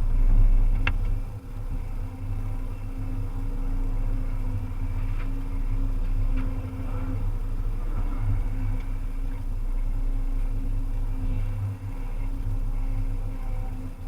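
Volvo EC300EL excavator's diesel engine running steadily, with a sharp click about a second in and a few fainter ticks later.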